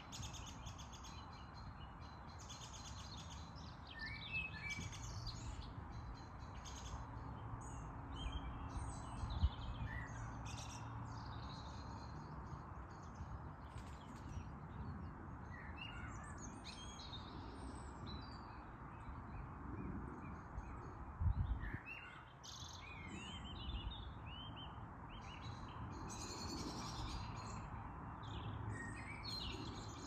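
Songbirds chirping and calling in many short, scattered phrases over a steady background hiss. A low thump comes twice, about a third of the way in and again past two-thirds.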